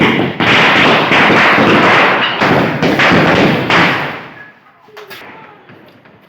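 Firecrackers going off loudly in quick succession, a dense crackling run of bangs that dies away about four seconds in.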